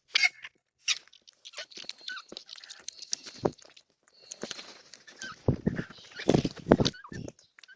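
Birds at a backyard bird bath: an irregular run of short, harsh calls and knocks, with the loudest few about five to seven seconds in.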